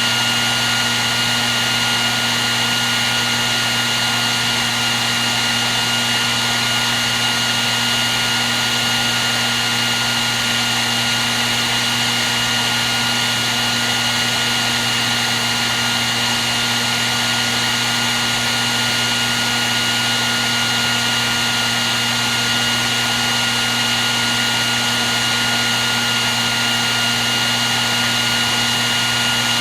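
Hair dryer running steadily: a constant rush of air with a high, steady motor whine and a low hum underneath.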